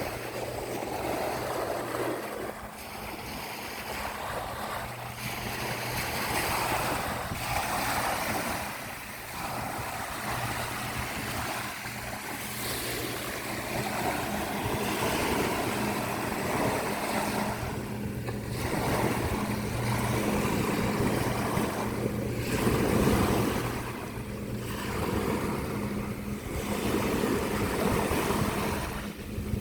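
Surf washing on a beach, with wind on the microphone. Under it runs a steady low motor hum that drops out briefly a few seconds in and comes back.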